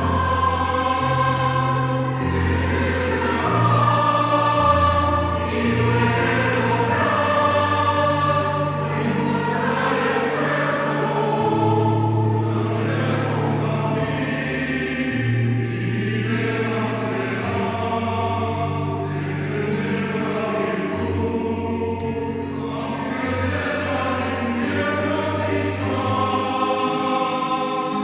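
Choir singing in several voice parts at once, with long held chords and sustained low notes.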